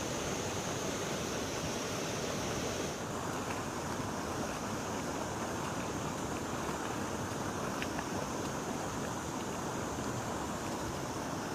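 River water rushing steadily, an even continuous hiss with no pauses. A thin high-pitched whine over it drops away about three seconds in and comes back near the end.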